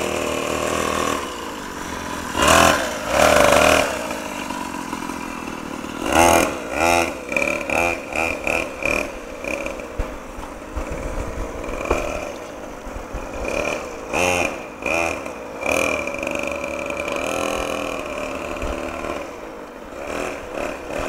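Small motocross bike engine running, revved in short loud bursts: a couple of long revs early, then a quick series of throttle blips about two a second, then more revs later on.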